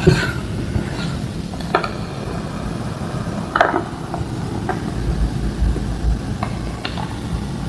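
Homemade green gym chalk slabs crushed and crumbled by hand: a scattering of short dry cracks and crumbles, the loudest about three and a half seconds in.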